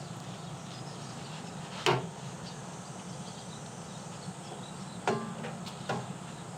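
Three sharp wooden-sounding knocks: a loud one about two seconds in and two weaker ones near the end. They sound over a steady low hum.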